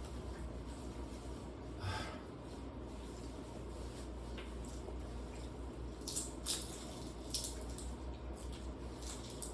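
Light clicks and taps of eating at the table, utensils against a dish or food, over a steady low hum. The clicks are sharpest around six to seven and a half seconds in.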